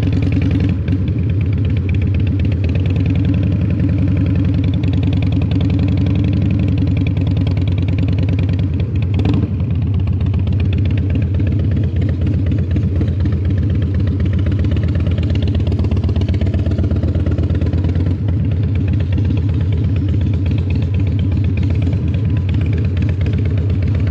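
A 2003 Harley-Davidson Fat Boy's Twin Cam 88 V-twin running through Vance & Hines exhaust, a loud, steady, deep exhaust note with a short click about nine seconds in.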